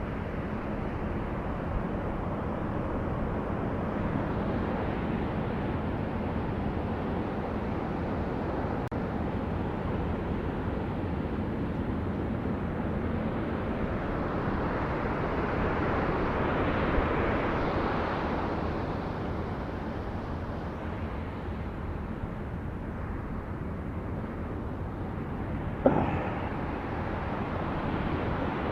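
Steady outdoor background noise with a vehicle going past, swelling and fading about halfway through, and a single sharp knock near the end.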